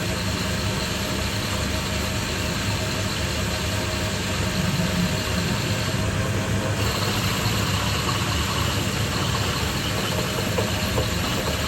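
A motor or engine running steadily.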